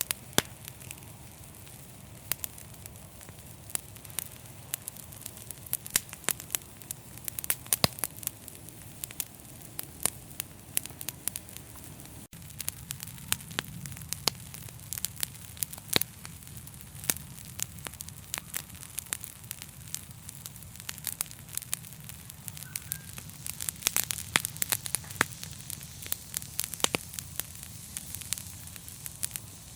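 Wood fire crackling in a fireplace: frequent irregular sharp pops and snaps over a low, steady rush of flames, with a busier flurry of pops about two-thirds of the way through.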